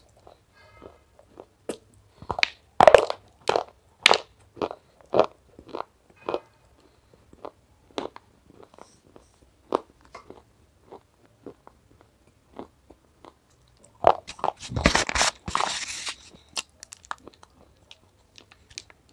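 Close-up eating sounds: sharp, irregular crunches as brittle, powder-dusted pieces are bitten and chewed. The loudest bites come about three seconds in, and there is a dense run of crunching around fifteen seconds in.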